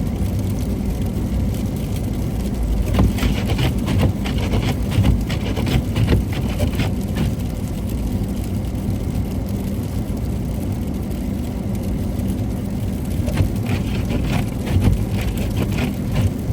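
Car running on an icy road, its engine and tyre rumble steady throughout, with scattered short crackles and ticks here and there.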